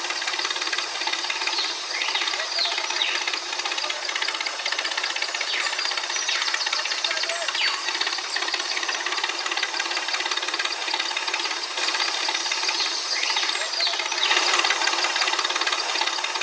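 Small electric motor and gearbox of a miniature DIY toy tractor running with a fast, even rattle.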